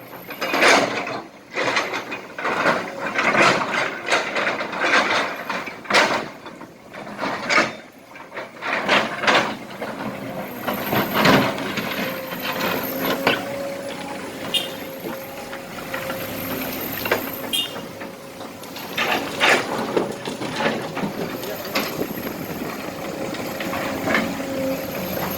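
Kobelco SK200 hydraulic excavator loading used asphalt and small rocks into a truck: a dense run of clattering knocks for the first ten seconds or so, then the machine running more steadily with a faint steady tone and occasional knocks.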